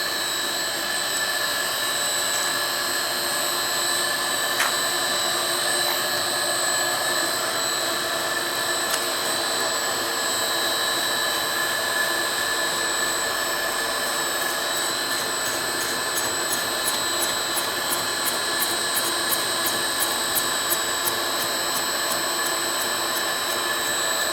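Home-made lathe running steadily with a constant whine made of several high tones, as a carbide-tipped tool turns the end of a hardened steel ball screw that was heat-softened to make it machinable. Over the last several seconds a fast, even ticking joins in.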